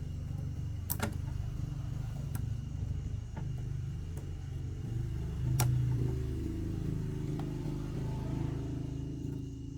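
An engine running steadily with a low hum, swelling briefly about halfway through, with a few sharp clicks over it.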